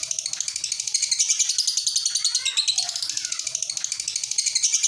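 Lovebird singing 'ngekek': a long, unbroken run of rapid, high-pitched chattering chirps, with lower arching notes mixed in now and then.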